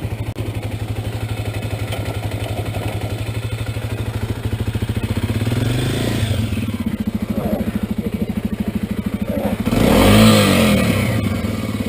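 Kawasaki KLX250 single-cylinder dirt-bike engine idling with a steady, even beat, revved up and back down once about ten seconds in.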